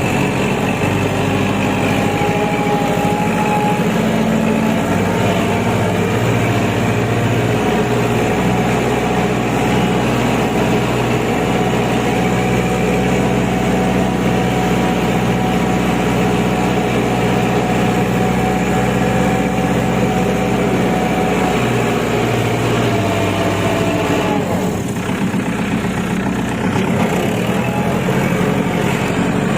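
Kubota L5018 tractor's diesel engine running steadily. About three-quarters of the way through, its note sags and breaks briefly, then picks up again.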